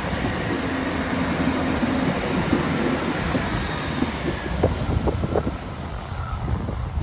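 Class 166 Turbo diesel multiple unit standing at the platform with its diesel engines running steadily.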